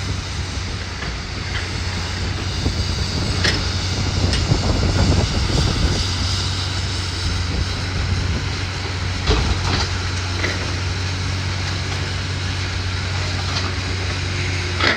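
Heavy diesel machinery running steadily at a low, even hum, swelling a little a few seconds in, with a few sharp knocks scattered through.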